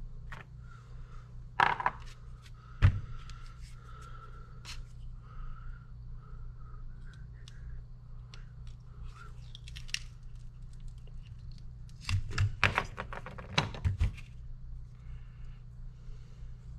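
Hand tools and hydraulic cylinder parts clicking and knocking on a workbench: two sharp knocks about two and three seconds in, then a quick run of knocks near the end, over a steady low hum.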